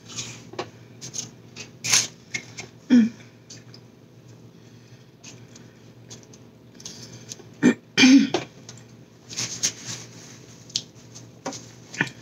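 Close-miked chewing and mouth sounds of a person eating a bacon cheeseburger: irregular wet clicks and smacks, with a few louder mouth or throat noises about three seconds in and again about eight seconds in.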